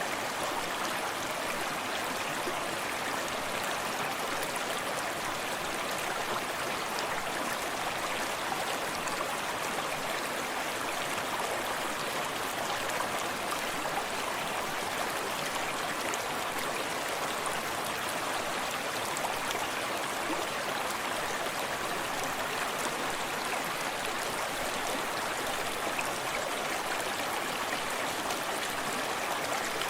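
Forest stream running steadily over rocks, a continuous even rush of flowing water with soft lapping and trickling.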